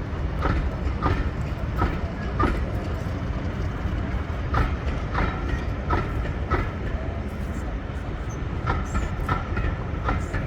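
Train wheels running over rail joints: a clickety-clack of sharp clicks, many in close pairs, over a steady low rumble.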